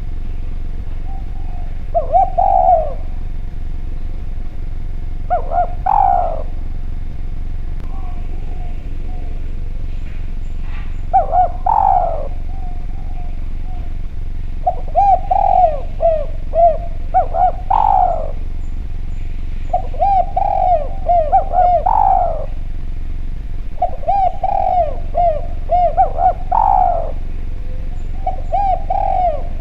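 Spotted dove (derkuku) cooing: a phrase of several short coos ending in a longer, louder note, repeated every few seconds, over a steady faint hum.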